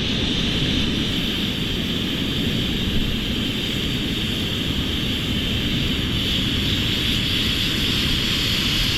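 Steady wind buffeting the microphone, a rough low rumble, with a steady high hiss over it.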